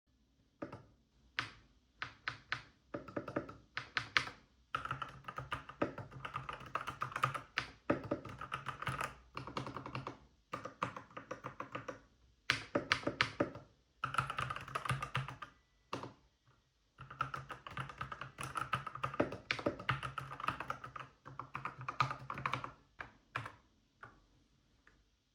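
Dark Project DPO87 mechanical keyboard with linear switches and PBT keycaps being typed on: a few single keystrokes at first, then bursts of fast typing broken by short pauses. The clacking is not too loud, with each keypress distinct.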